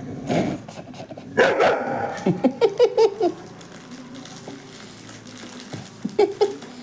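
Labrador retriever begging for a biscuit with short barks and yelps: one louder call about a second and a half in, a quick run of five or six short ones just after, and two more near the end.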